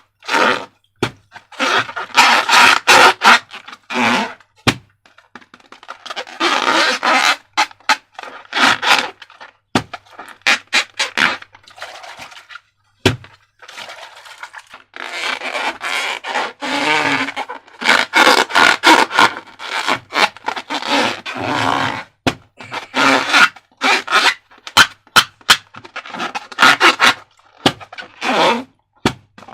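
Slime and its ingredients being worked by hand in a container: irregular noisy strokes a second or two long, broken by many sharp clicks.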